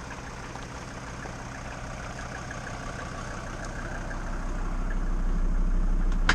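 Mercedes 290GD 2.9-litre five-cylinder turbo diesel idling steadily, its low drone growing louder over the second half, with one sharp click at the very end.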